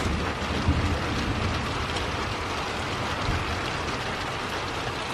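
Steady moderate rain falling and spattering on surfaces, with a low rumble of thunder underneath.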